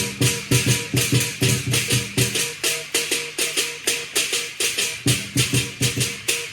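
Lion dance percussion: a drum and clashing cymbals keep a steady, driving beat of about three strikes a second, the cymbals ringing bright over the drum.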